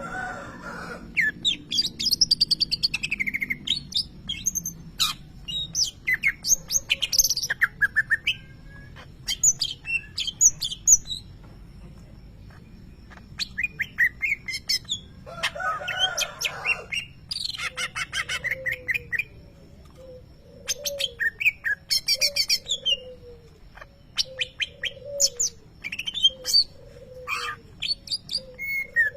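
Greater green leafbird (cucak ijo) singing a fast, varied song of high chirps, trills and whistles, broken by a couple of harsher noisy calls; a songbird prized for mimicking lovebird calls. From about two-thirds of the way in, a low short call repeats roughly once a second beneath the song.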